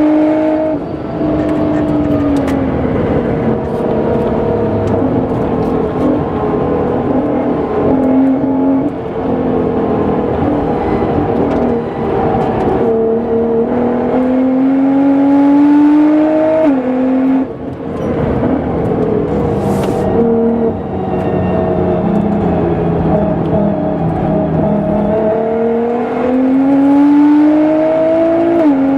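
Nissan GT-R R35's tuned twin-turbo V6, about 700 hp, pulling hard on a race circuit. Its pitch climbs through each gear and drops sharply at the upshifts, about a third of the way in and near the end, over steady tyre and wind rush.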